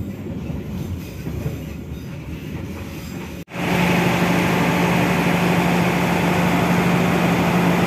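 Train running, heard from inside a passenger carriage: a rumbling ride with wheel noise on the rails. After a cut about three and a half seconds in comes a louder, steady hum with one constant low tone: the stopped train's diesel engine idling at the station.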